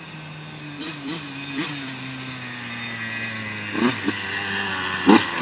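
85cc dirt bike engine running, with a few quick throttle blips about a second in, then its note slowly dropping. A few sharp knocks near the end.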